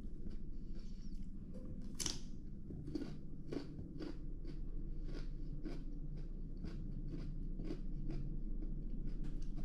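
A person chewing crunchy raw vegetables close to the microphone, crisp crunches about twice a second over a steady low hum.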